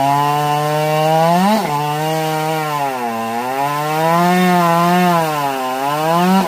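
Ported Husqvarna 550 XP two-stroke chainsaw running at high revs while cutting wood. Its pitch sags under load and climbs back several times, with a sharp rise and drop about a second and a half in and a deeper dip about three seconds in.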